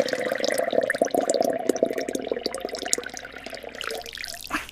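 Liquid pouring, a dense run of small gurgles and splashes that thins out and fades about four seconds in.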